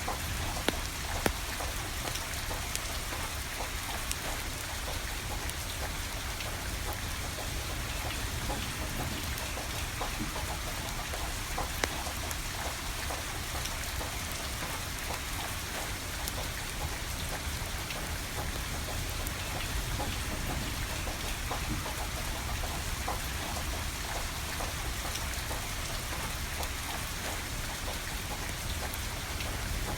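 Steady rain falling, with a few sharp pops from a wood fire crackling, two of them near the start.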